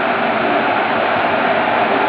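Steady noise of a train's passenger coaches rolling past the platform, wheels running on the rails, with no distinct clicks or beats.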